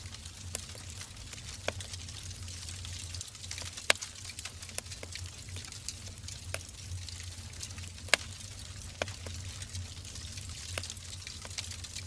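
Wood fire burning in a fireplace: a steady soft hiss with scattered crackles and pops, two sharper pops about four and eight seconds in.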